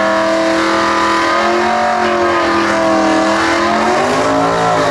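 Drag-racing car engine running loud at full throttle down the strip. Its pitch shifts about a second and a half in, then falls away near the end.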